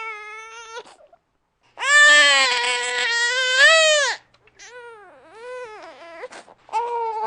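Baby crying in repeated wails: a short cry at first, then a long, loud wail about two seconds in. Shorter, fainter cries follow, and a stronger cry comes near the end.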